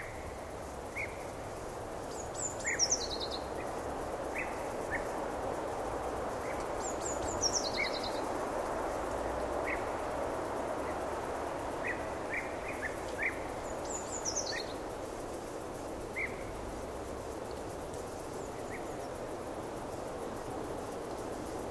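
Wild birds calling over steady outdoor background noise: three times, a quick run of high notes stepping down in pitch, with short chirps scattered between.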